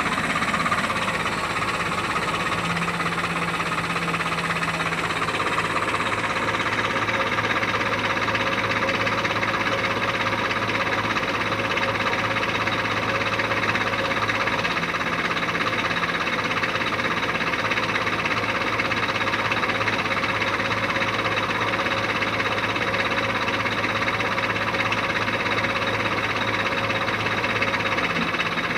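Heavy diesel engine running steadily, a constant low hum with a rough mechanical clatter over it.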